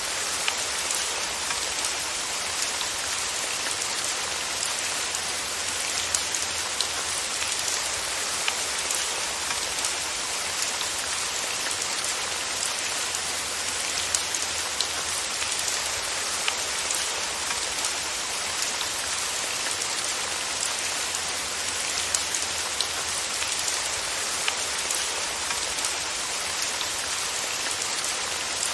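Steady rain falling on a surface, an even hiss with many small separate drop ticks scattered through it.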